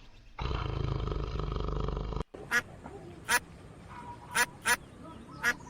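A steady rough sound for about the first two seconds cuts off abruptly, then a duck quacks five times in short, separate calls.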